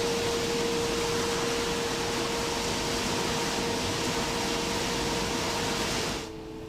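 Industrial scrap-metal sorting machinery running: a steady rushing noise with a constant hum. About six seconds in the noise drops sharply, leaving a quieter machine hum.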